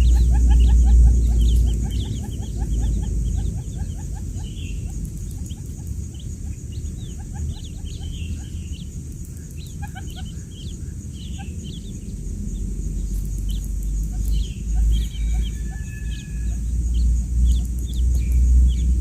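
Newly hatched quail chicks peeping: many short, rapid cheeps overlapping. A low rumble runs underneath, strongest at the start and near the end.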